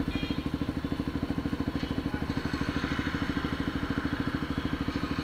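KTM Duke 200's single-cylinder engine idling steadily, its exhaust giving an even, rapid pulse with no revving.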